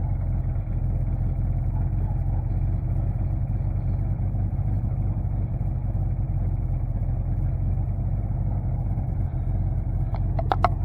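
Chevrolet C50 dump truck's engine running steadily, with no change in speed; a few short high clicks near the end.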